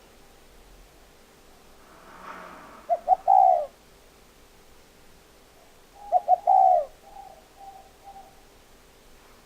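Spotted dove cooing: two phrases about three seconds apart, each a couple of quick short notes running into a longer coo.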